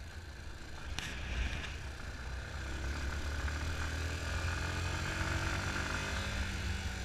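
Yamaha Fazer 250 motorcycle's single-cylinder engine running while riding slowly on a dirt road, its pitch rising gently partway through. A short knock about a second in.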